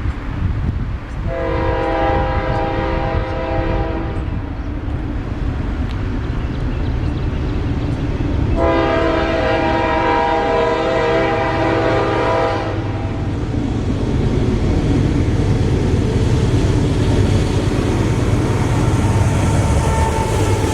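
Locomotive air horn sounding two long blasts, a few seconds apart, over the low rumble of an approaching train, the rumble building toward the end.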